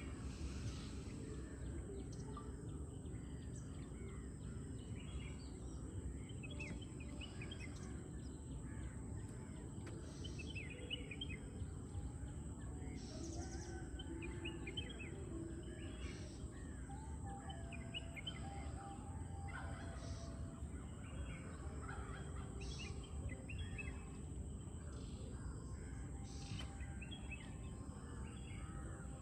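Many birds chirping and calling in a morning chorus, with short louder calls every few seconds, over a steady low background rumble and a constant high-pitched tone.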